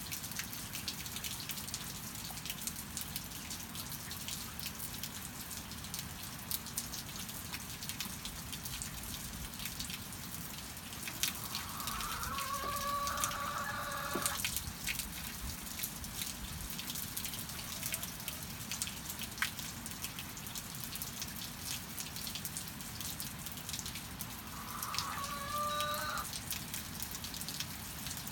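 Steady rain with many drips tapping on a surface, and a hen calling twice: a drawn-out call about halfway through and a shorter one near the end.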